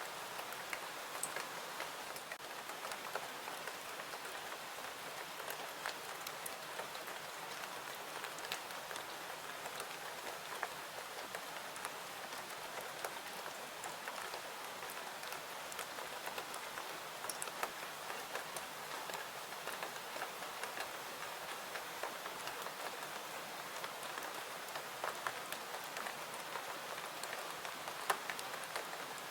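Steady rain falling, with scattered small crackles and ticks from a fireplace mixed in.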